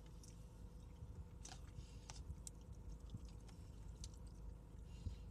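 A person chewing food close to the microphone: soft, wet mouth sounds and a few small crackling clicks.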